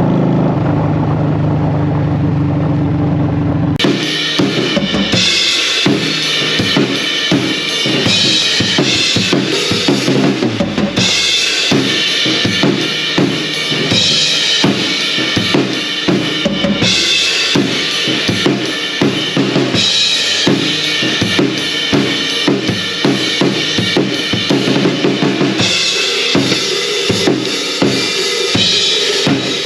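Honda Shadow VT750 V-twin with Vance & Hines Short Shots pipes idling, cut off abruptly a few seconds in by a drum kit being played: bass drum, snare and cymbals in a steady, busy groove.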